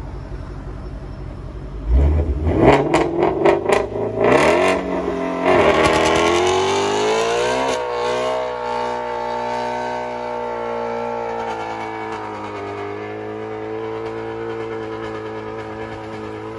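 Ford Shelby GT350's 5.2-litre flat-plane-crank V8 blipped sharply several times, then rising and held at high revs in a burnout while the rear tyres spin and smoke.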